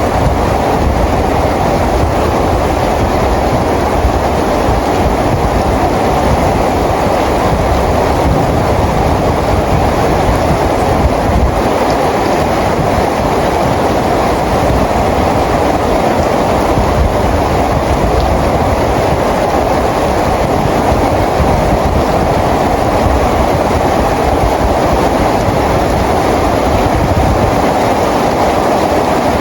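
Steady rain, an even, unbroken hiss with a low rumble underneath.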